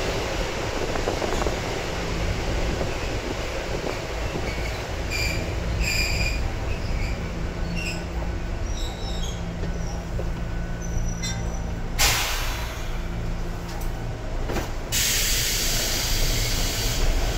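Sangi Railway 101-series electric train running, heard from on board: a steady rumble of the wheels on the rails, with faint high wheel squeal midway. About twelve seconds in, a sudden hissing rush starts and lasts about three seconds.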